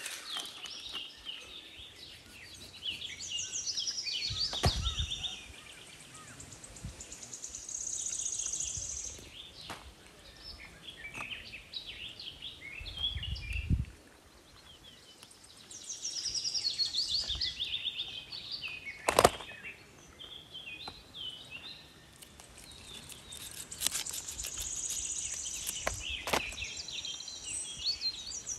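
Birds singing: a fast run of high chirps falling in pitch comes three times, with scattered chirps between. Low thumps about five and fourteen seconds in, and a single sharp knock about two-thirds through, the loudest sound.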